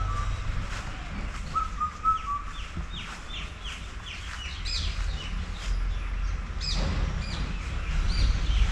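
Birds calling: a string of short, quick downward chirps with a few brief level whistled notes, over a low steady rumble.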